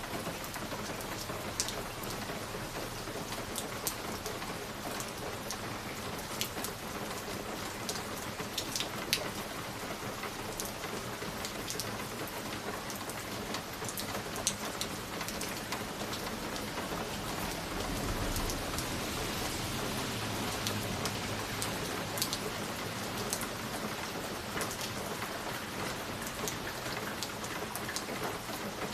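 Steady rain with scattered sharp ticks, and a low rumble of distant thunder that swells about 18 seconds in and fades by about 22 seconds.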